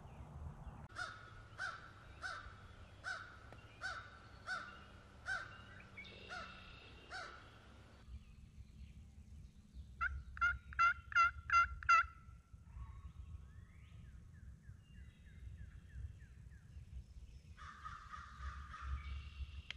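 Turkey yelping: a steady series of about nine yelps, then a quicker burst of about six louder notes a few seconds later, followed by fainter calls.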